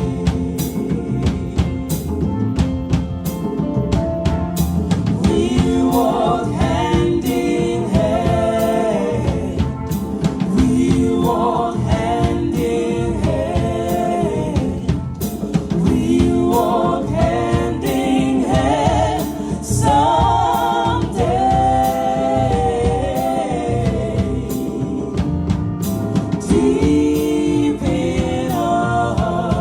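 Gospel music: a choir singing over a drum kit beat.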